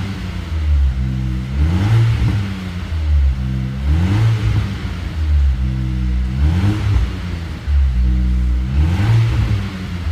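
Renault Samsung XM3 revving through a custom valved exhaust: repeated throttle blips, each rev climbing, holding briefly and dropping back, about every two and a half seconds.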